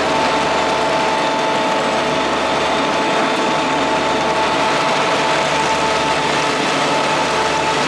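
MadVac 101 ride-on vacuum running, its Kubota D1105 diesel engine and vacuum fan giving a steady whine over a rough, rattling mechanical noise.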